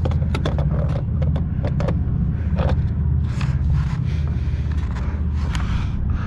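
A metal hand tool clicking and scraping against a steel-and-brass pipe fitting as he tries to work the steel off, which will not budge. A steady low engine rumble runs underneath.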